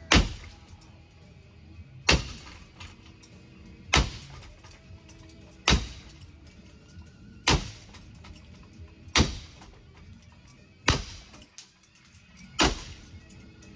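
Ceiling fan being smashed: eight heavy crashing impacts at an even pace, about one every two seconds, each with a short rattle of breaking parts, over background music.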